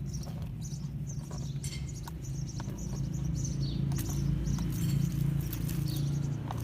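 Small electric motor of a radio-controlled scale truck whirring steadily, with irregular crackling and clicking like tyres or the chassis working over dirt and gravel.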